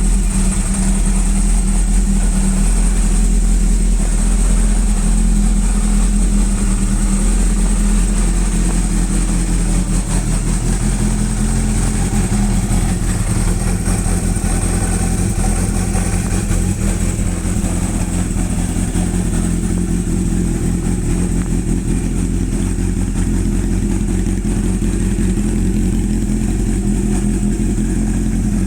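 Honda CB400 Super Four VTEC's inline-four engine idling steadily after starting.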